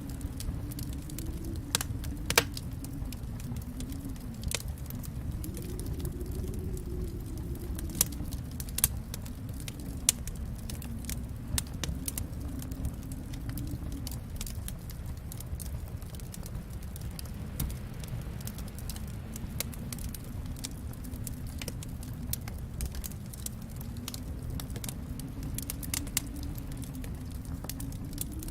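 Wood fire burning in a fireplace: a low, steady rumble of flames with frequent sharp crackles and pops, a few louder snaps about 2, 8, 9 and 10 seconds in.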